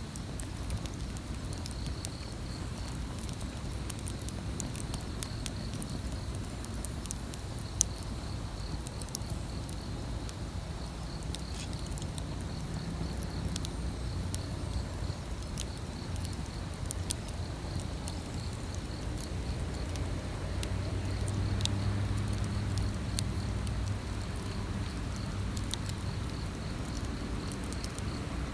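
Wood campfire crackling, with sharp pops scattered irregularly over a low rumble of burning.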